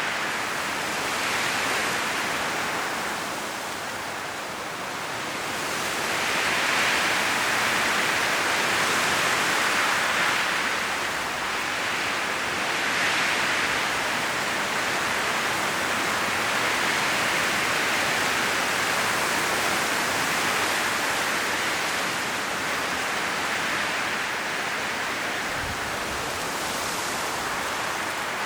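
Strong wind blowing through forest trees, rustling autumn leaves, a steady rushing hiss that swells and eases in gusts every few seconds.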